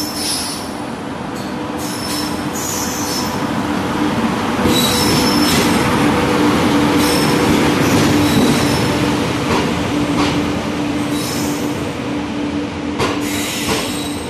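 An Indian Railways WAP7 electric locomotive rolls slowly past at close range as it arrives, with a steady electric hum and repeated short high squeals from its braking wheels. The sound is loudest as the locomotive goes by. Near the end the passenger coaches follow with sharp wheel clicks over the rail joints.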